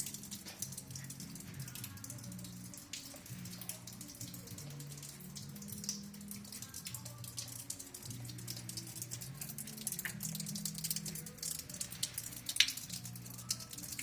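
Rainwater dripping and pattering from a leak: many irregular small drips. Low held tones shifting in pitch, like music, run underneath.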